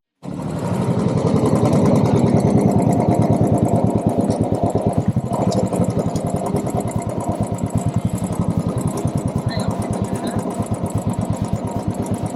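Exhaust note of a 2012 Royal Enfield Classic 350's single-cylinder UCE engine running, an even, rapid beat of exhaust pulses. It cuts in suddenly just after the start.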